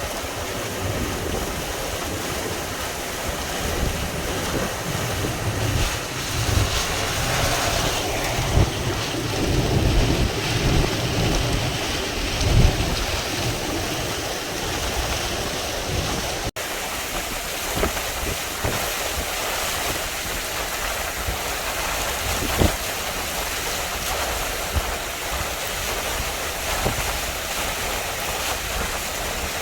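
Hurricane-force wind buffeting the microphone in heavy gusts over a constant rushing of storm surf. About halfway through the sound breaks off for an instant and comes back as a steadier hiss of wind-driven rain and surf with less rumble.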